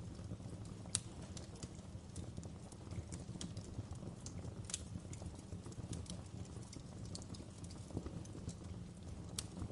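Wood fire crackling: a steady low rumble of the flames with irregular sharp pops and snaps, the loudest about a second in.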